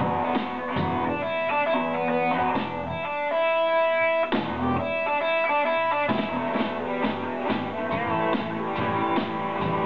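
Rock band playing live: electric guitar over a steady drum beat, with a guitar note held for about a second around the middle.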